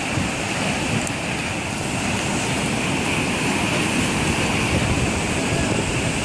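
Gale-force wind and heavy surf on the coast: a steady, unbroken rush of noise with low wind rumble on the microphone.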